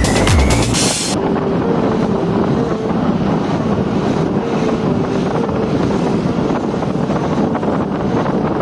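Electronic music cuts off about a second in, giving way to steady vehicle engine and road noise with wind buffeting the microphone.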